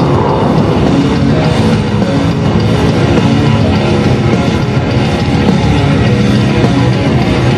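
Loud rock music with electric guitar and drums. A jet's noise fades out in the first moment.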